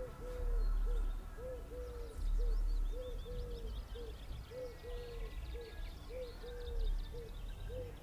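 A bird calling a steady run of low, arched hooting notes, short and long in turn. Small birds chirp higher up in the middle.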